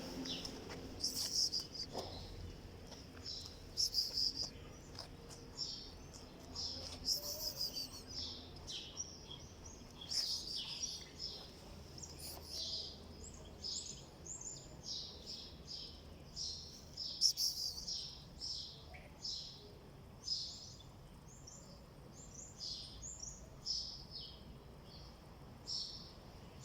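Small birds chirping: a steady stream of short, high chirps, several a second.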